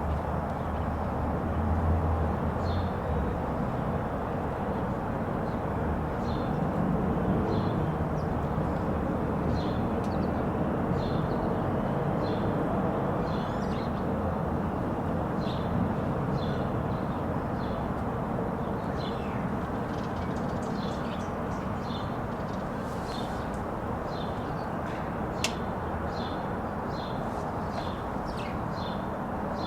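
Small birds chirping over and over in short, high notes, roughly one a second, against a steady low background rumble; a single sharp click comes about 25 seconds in.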